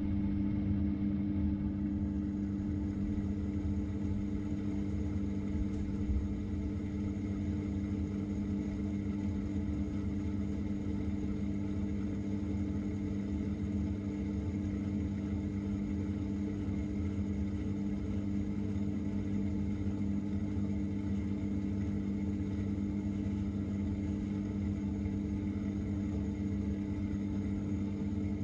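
Samsung 6.5 kg top-load washing machine spinning at a steady speed, heard from inside the drum: a constant motor hum over a low rumble, typical of the final spin-dry stage.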